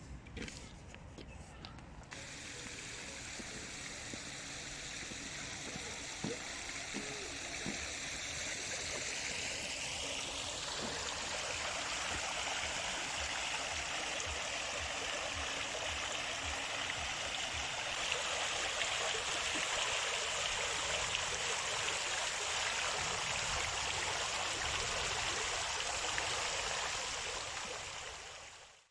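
Steady rush of running water, growing louder and then fading away near the end.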